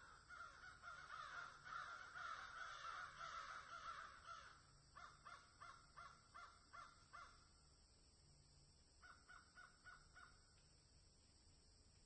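Faint bird calls: a dense chorus of overlapping calls for the first four seconds or so, then two quieter runs of short calls in quick succession, about six and then about five.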